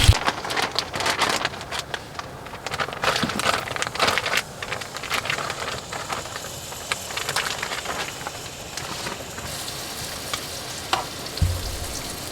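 Food sizzling and crackling in a pan on a wood stove, an irregular spatter of pops over a steady hiss. A low rumble comes in near the end.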